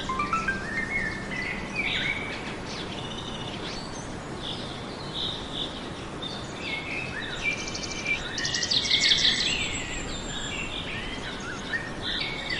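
Several birds chirping and calling over a steady background hiss. A run of short notes climbs in pitch near the start, and a fast buzzy trill comes about eight seconds in.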